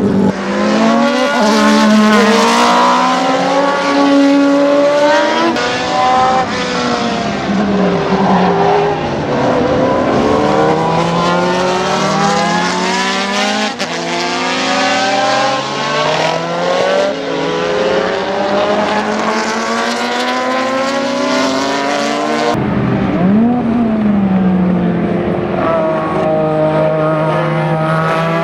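Ferrari 156-85 Formula 1 car's twin-turbo V6 engine at racing speed, its pitch climbing and dropping again and again through gear changes as it passes. A cut about 22 seconds in, then the engine revs up again.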